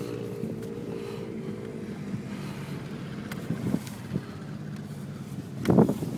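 Vehicle engine running steadily, heard from inside the cab while driving over a rough dirt track, with a loud thump near the end.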